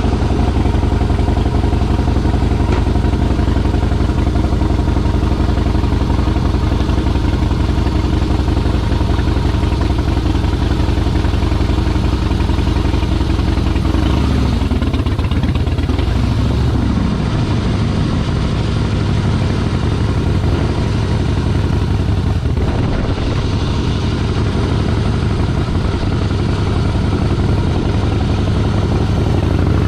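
Motorcycle engine idling steadily. About halfway through its pitch swings down and up as it pulls away, and it climbs again near the end.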